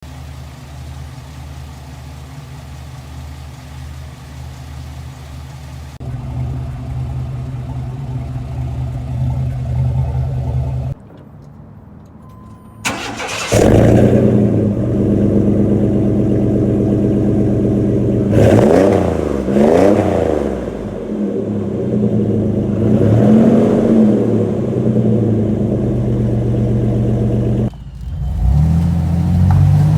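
1995 Chevy Astro's 4.3 V6 running through a Jegs muffler exhaust, idling steadily at first. It drops away briefly about eleven seconds in, then comes back louder. It is revved several times, the pitch rising and falling with each blip of the throttle.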